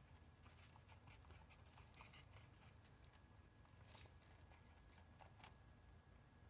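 Faint clicks and rustling of washi tape rolls being handled and sorted through, over near silence.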